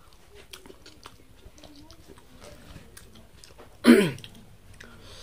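Faint wet chewing and lip-smacking sounds from eating maize kernels. About four seconds in comes one short, loud throat sound that falls in pitch.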